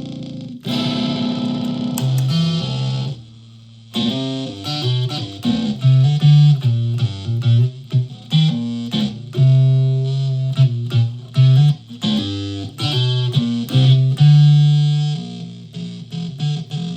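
Solid-body electric ukulele played through a home-built clone of the Dwarfcraft Hax effects pedal. It plays a run of plucked single notes with a few held ones, and there is a short break about three seconds in.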